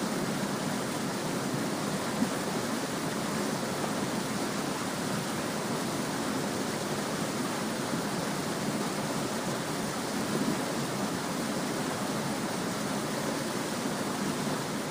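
Small stream babbling steadily, a constant even rush of flowing water.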